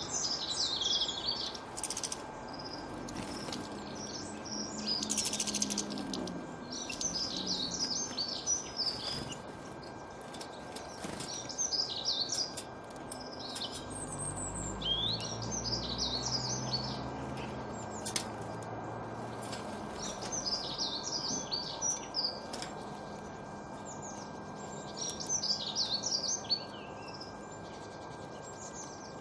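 Small birds singing and chirping, with bursts of quick, high twittering phrases every few seconds and a few sharp clicks. A faint steady tone runs underneath, and a low rumble rises and fades about halfway through.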